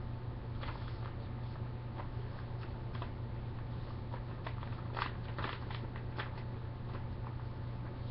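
Printer paper being folded and creased by hand: scattered soft crinkles and rustles, a couple of louder ones about five seconds in, over a steady low hum.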